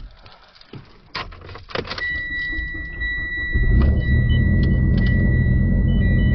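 A Mitsubishi Lancer Evolution X's turbocharged four-cylinder engine is started from cold: a couple of clicks and a steady electronic chime, then about three and a half seconds in the engine fires and settles into a loud, steady idle.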